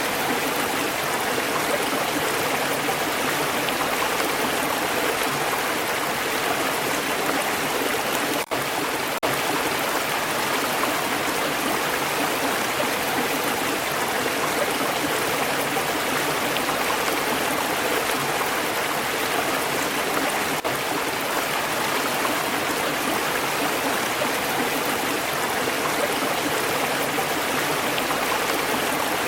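Water of a stream flowing steadily over stones, an even rushing and burbling with no let-up, except for a momentary dip about eight seconds in.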